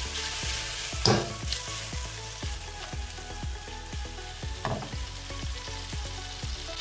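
Snails and chopped garlic sizzling steadily in hot olive oil in a non-stick wok, with two louder scrapes or knocks as the wok is shaken to mix them.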